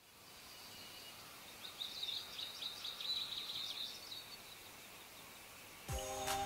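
Faint outdoor ambience with a bird calling in a quick run of high chirps for about two and a half seconds. Near the end, music with a beat starts suddenly.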